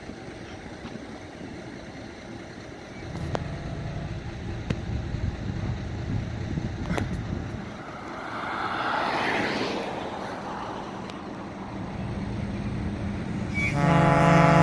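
Truck engine running steadily, with a rushing noise that swells and fades about two-thirds of the way in. Then a loud truck air horn blast starts near the end.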